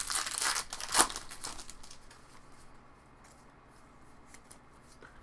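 A trading-card pack wrapper being torn open and crinkled, with one sharp snap about a second in, then quieter handling with a few light ticks.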